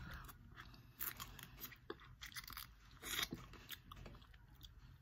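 Quiet close-up eating of snow crab legs: chewing with scattered small crunches and clicks, and a louder crunch about three seconds in.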